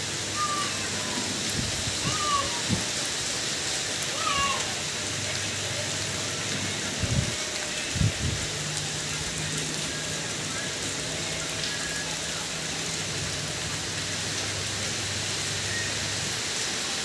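Steady rain falling, a continuous even hiss. A few short high calls break through in the first few seconds, and two dull thumps come about seven and eight seconds in.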